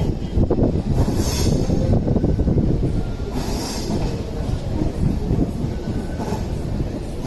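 Passenger train of LHB coaches running along the track, a steady heavy rumble of wheels on rail, with brief high-pitched wheel squeals about a second in, at about three and a half seconds, and again near the end.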